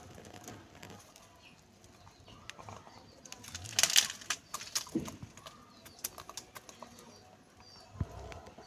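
Roosters pecking at crisp papad: a run of sharp clicks and crackles, with a brief, loud noisy flurry of scuffling or wing flapping about four seconds in.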